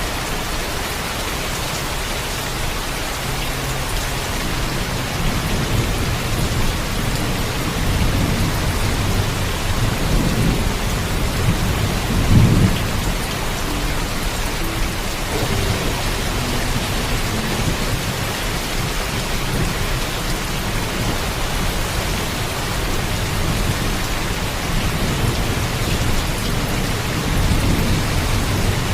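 Heavy steady rain with rolling thunder: the low rumble swells about ten seconds in, peaks with its loudest crack-like surge about twelve seconds in, and rolls again near the end.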